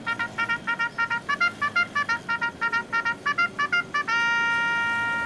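A musical vehicle horn playing a rapid tune of short electronic beeps, about six a second and jumping between a few notes, then holding one long steady note near the end.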